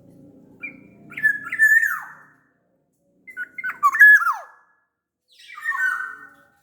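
Black-naped oriole (kepodang) singing: three short phrases of loud, fluty whistles with quick up-and-down slides, a second or so apart.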